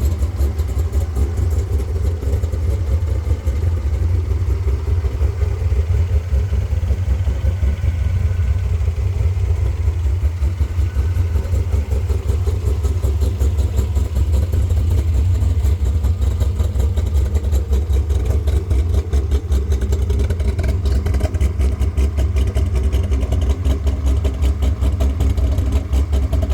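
Chevrolet C5 Corvette's V8 engine idling steadily, a deep, fast, even exhaust pulse.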